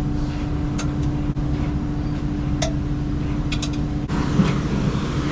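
Vehicle engine idling steadily, with a few light metallic clinks. Part of the hum drops away about four seconds in.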